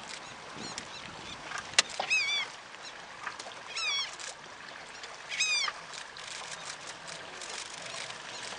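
A bird calling three times, about a second and a half apart: short calls that rise and then fall in pitch. Underneath is a constant crackling background with scattered clicks, the sharpest just before the second call.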